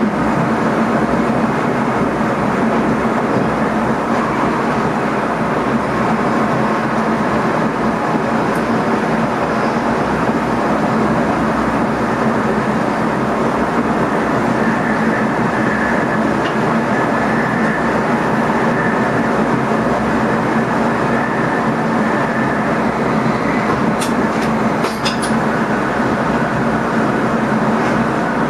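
Running noise inside the driver's cab of an NS ICM (Koploper) electric multiple unit: a steady rumble of wheels on rail with air noise and a steady low hum. A few short clicks come near the end.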